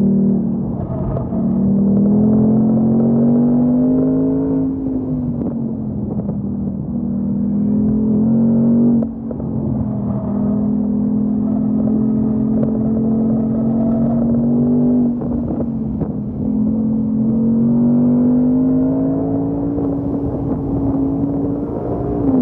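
Ford Mustang Mach 1's 5.0-litre V8 engine, heard from inside the cabin under load on a race track. The engine note climbs in pitch under acceleration and falls back several times, with a brief sharp drop in loudness about nine seconds in.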